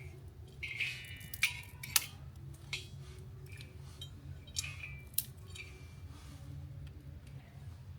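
Wood bonfire crackling, with several sharp pops and cracks, the loudest about two seconds in, over a low steady rumble. Short high chirps come around a second in and again about five seconds in.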